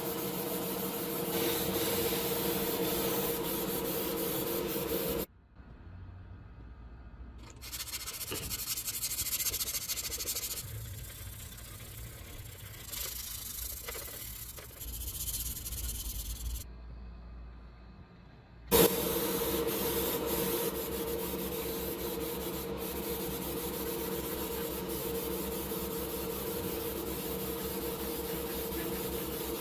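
Rubbing and sanding noise from hand work on a model car, over a steady hum. The sound cuts abruptly to a quieter passage about five seconds in, and cuts back near the two-thirds point.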